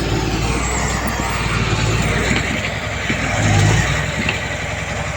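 Diesel engine of heavy earthmoving machinery running steadily, swelling louder about three and a half seconds in.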